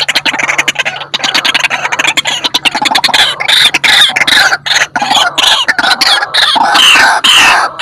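White-breasted waterhen (ruak-ruak) calling loudly: a fast rattling run of notes that, about three seconds in, gives way to harsh repeated notes at about two a second.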